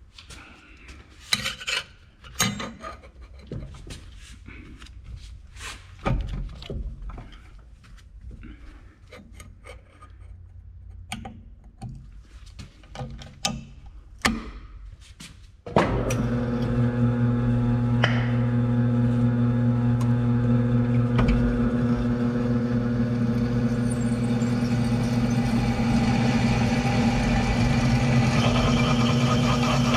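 Light clinks, knocks and scrapes of metal stock being handled. About halfway through, a metal-cutting power saw starts and runs steadily with a low, even motor hum while it cuts the pieces.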